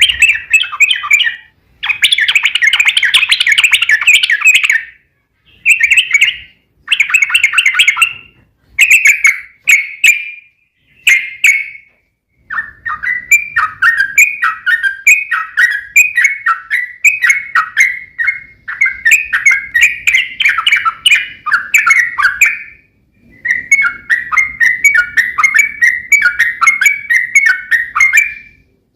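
Yellow-vented bulbul (trucuk) singing loudly. For the first twelve seconds it gives short bursts of bright chattering song with brief pauses between them. After that comes a long unbroken run of quick, repeated falling notes, the long rolling "ropel" phrase, broken only once by a short pause.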